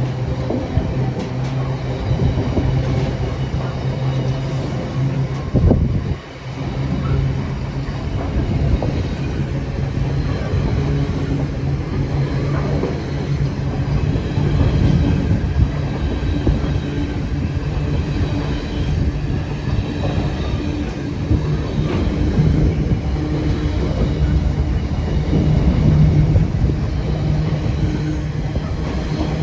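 Long freight train hauled by a Class 66 diesel locomotive running through, its wagons rumbling and clattering over the rails with some wheel squeal.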